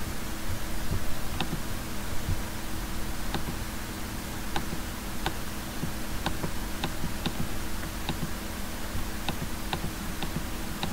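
Computer mouse clicking at an irregular pace, roughly once a second, over a steady low electrical hum.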